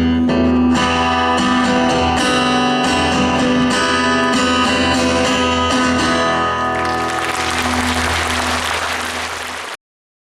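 Guitar playing the closing instrumental bars of a song over a sustained low note. About seven seconds in, the music gives way to audience applause, which cuts off abruptly near the end.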